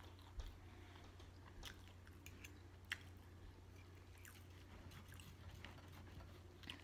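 Faint chewing and mouth smacks from someone eating steak, with a few sharp clicks from a knife and fork cutting the steak on a plate, over a low steady hum.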